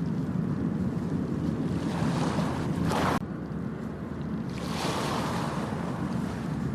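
Ocean waves washing onto a beach as a steady rush of surf. One wave swells and cuts off sharply about three seconds in, and another surges around five seconds in.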